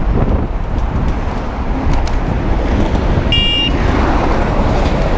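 Steady road-traffic and wind rumble heard from a moving bike, with a brief high-pitched beep a little over three seconds in.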